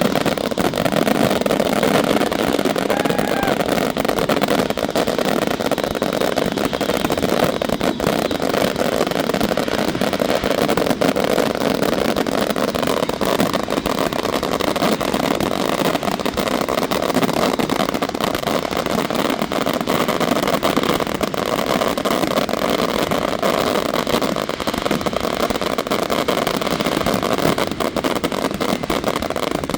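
FPV drone's motors and propellers running steadily in flight, a constant whirring hum.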